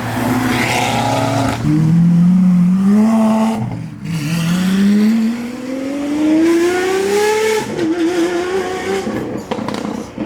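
A car's engine accelerating hard through the gears, its pitch climbing, dropping sharply at an upshift about four seconds in, then climbing again for several seconds before it wavers and fades away.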